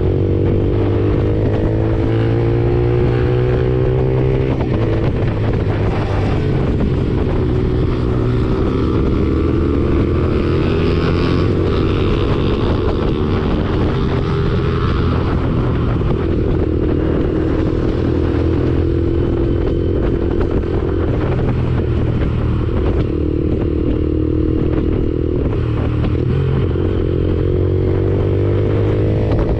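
Lexmoto Assault 125's single-cylinder 125cc engine running through an aftermarket Black Widow exhaust while riding, its pitch rising and falling as the throttle and gears change.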